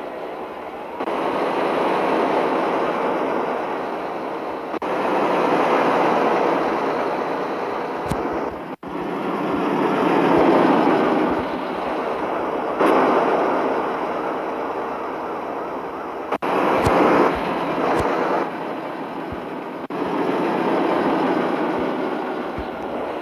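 Travel noise of a Mitsubishi Fuso truck on the move, a loud steady rushing without a clear engine note. It shifts abruptly every few seconds, with a few sharp knocks.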